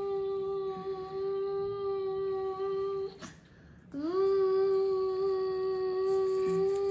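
A child humming a long, steady note that scoops up in pitch at its start. It breaks off about three seconds in, then starts again a little under a second later with the same upward scoop and holds steady.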